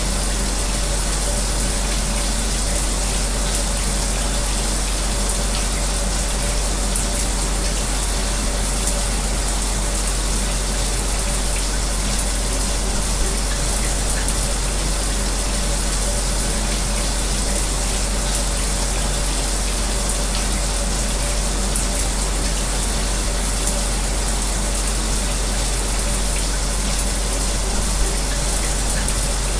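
Shower running, its spray making a steady, even hiss of falling water, mixed with the steady hum of an electric fan.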